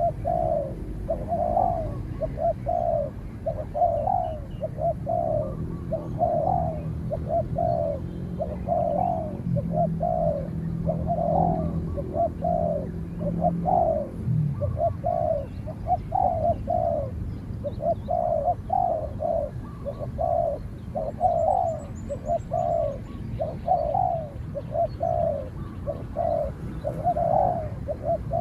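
Spotted doves cooing, a steady run of short low coos about once a second. A faint low drone runs underneath for several seconds mid-way.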